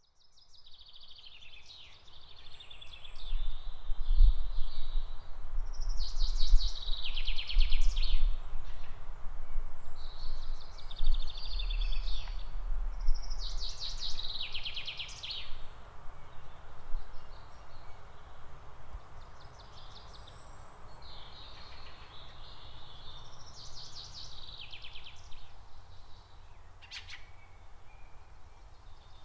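Songbird singing: short chirpy phrases repeated every few seconds with a pause midway, over a steady outdoor hiss and a low rumble in the first half.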